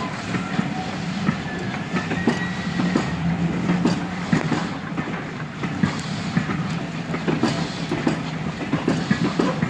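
Passenger coaches of a steam train running past close by: the wheels clack over the rail joints in an uneven series of clicks over a steady rumble.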